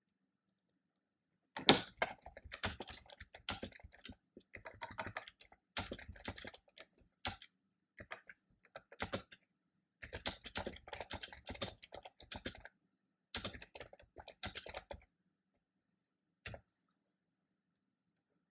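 Typing on a computer keyboard: bursts of rapid keystrokes with short pauses, starting about a second and a half in and stopping a few seconds before the end, followed by one lone key click.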